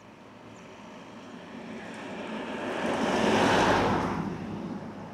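A road vehicle passing by: its noise swells up over about two seconds, peaks in the middle and fades away again.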